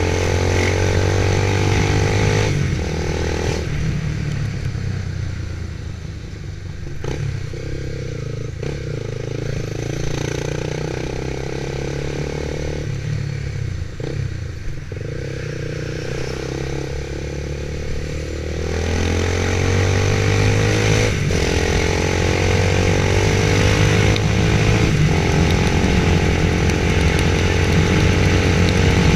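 Motorcycle engine running under way, easing off for a stretch and then growing louder and rising in pitch about two-thirds of the way through as it accelerates.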